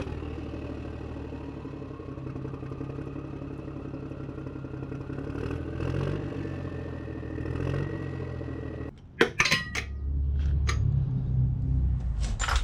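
Ryobi cordless impact driver running steadily as it spins out the oil pan bolts, its pitch rising slowly, followed after a brief break by sharp metallic clicks and clatter of metal parts.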